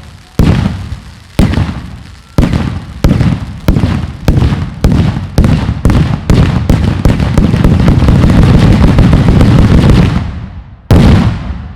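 Fireworks bursting in a loud display: booming bangs about once a second, each with a rumbling tail, coming faster and faster until they merge into a dense, continuous barrage that dies away about ten seconds in. One more single bang follows near the end.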